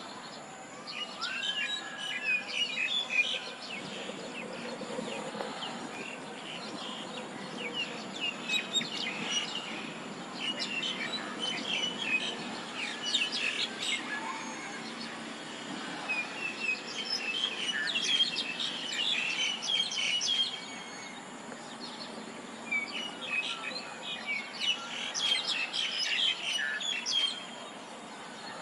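Songbirds chirping in bouts of rapid high notes, four bouts a few seconds apart, over a steady low background noise.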